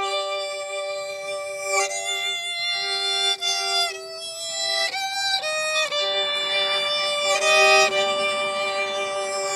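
Solo violin playing a slow melody of long bowed notes that change every second or so, over a steady lower note held beneath them like a drone.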